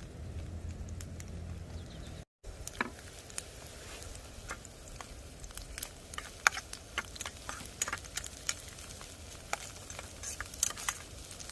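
Campfire cooking: irregular sharp pops and crackles over a faint sizzling hiss, after a low steady rumble in the first couple of seconds.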